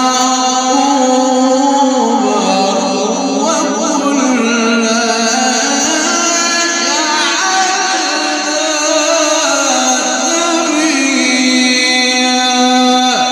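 Male Quran reciter chanting in the melodic mujawwad style, holding long sustained notes that slide between pitches, amplified through a sound system.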